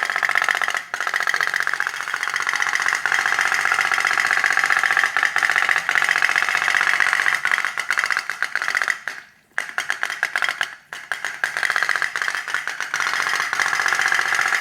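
Small steam-powered toy boat engine running with a fast, even stream of ticking pops, with two brief breaks about nine and eleven seconds in.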